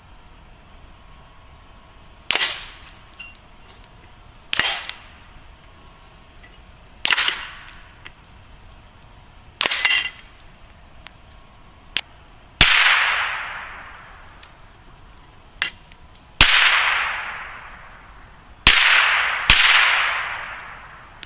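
Rimfire rifle shots at metal targets, about eight of them a few seconds apart. The first four are short with a faint high ring. The later ones trail off in a long fading echo, and a few smaller clicks fall between them.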